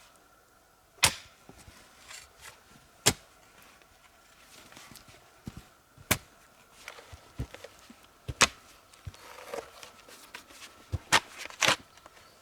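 A series of sharp knocks or impacts, about six of them, spaced unevenly one to three seconds apart, with a pair close together near the end.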